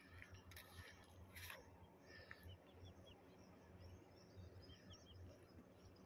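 Near silence: quiet open-air ambience with a low rumble, a few faint clicks in the first second and a half, and short, faint bird chirps twice, around the middle and again near the end.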